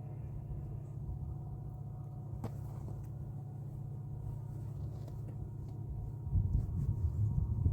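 Diesel locomotive rumbling steadily as the train nears, growing louder about six seconds in.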